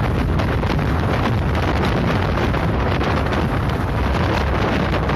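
Steady wind rushing over the microphone on a motorbike moving at speed.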